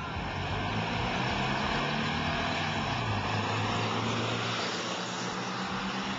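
Air-cooled Volkswagen Beetle flat-four engines running hard as Beetles accelerate away from a standing start, a steady engine drone.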